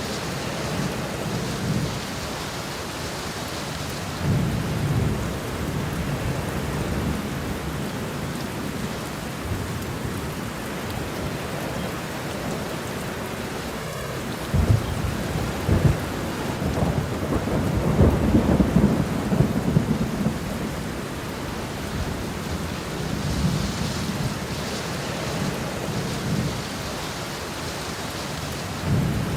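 Steady rain with rolling thunder. Low rumbles come and go, and a longer, louder peal with a few sharp cracks swells about halfway through, then dies away.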